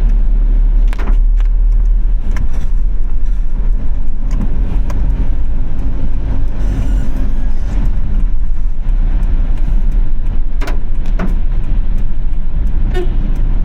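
Car driving through city traffic in the rain: a steady, loud low rumble of road and engine noise, with scattered short clicks and taps.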